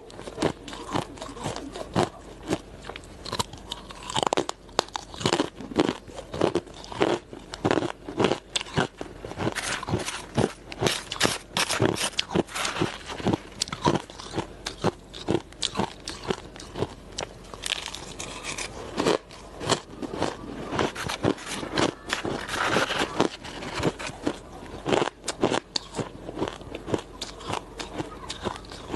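Close-miked biting and chewing of hard ice: a rapid, irregular series of sharp crunches and cracks, several a second.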